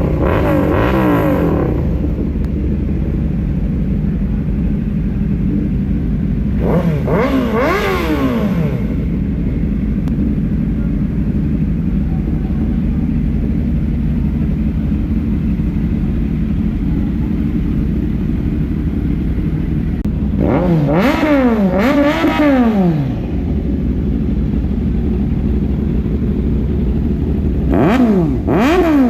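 Big-bike motorcycle engine idling with a steady low drone, revved in short throttle blips that rise and fall in pitch: once at the start, once about seven seconds in, twice in quick succession around twenty-one seconds, and again near the end.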